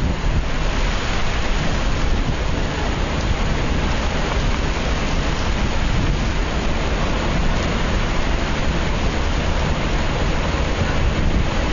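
Hurricane wind and heavy rain, a steady loud rushing with a deep low rumble underneath.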